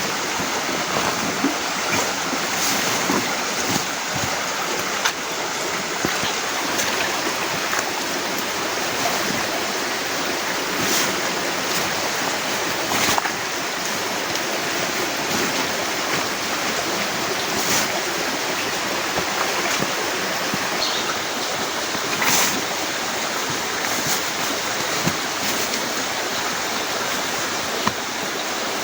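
Heavy rain falling steadily, with many sharp drop impacts close to the microphone.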